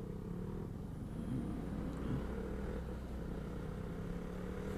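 Motorcycle engine running at a steady speed while riding, its pitch holding level.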